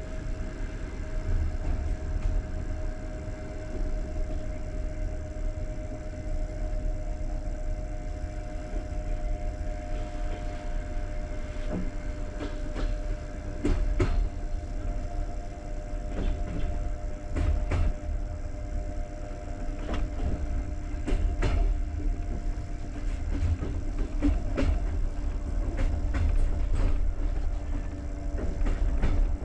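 A passenger train coach heard from inside as it runs: a steady low rumble with a faint steady whine, and from about twelve seconds in, irregular sharp clacks of the wheels over rail joints and points.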